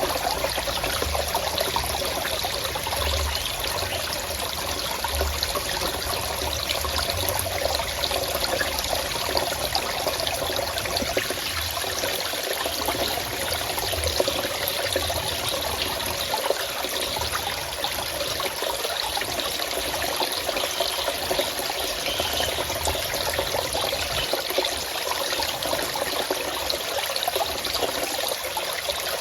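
Water running and trickling steadily in a forest stream, an even rushing with no breaks.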